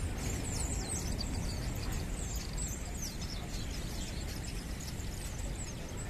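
A flock of small birds chirping, many quick high chirps that fall in pitch, densest in the first half, over a steady low rumble.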